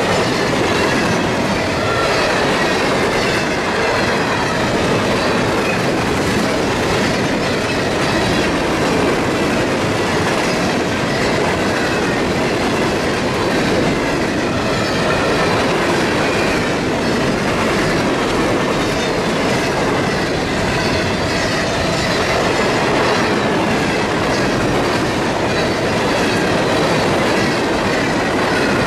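Freight train cars rolling past at trackside: a loud, steady rumble of wheels on rail with regular clicking over the rail joints.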